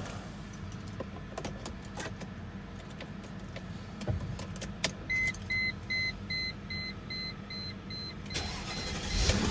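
Keys and switch clicks in a 2000 Mercedes-Benz E430, then a dashboard warning chime beeping about two and a half times a second from about five seconds in, and near the end the starter cranking its 4.3-litre V8 for a cold start.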